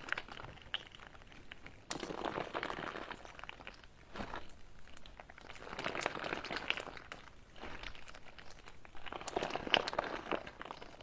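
Slime being squeezed and pressed by hand, a crackly stream of small pops and clicks that comes in several bouts of a second or two each.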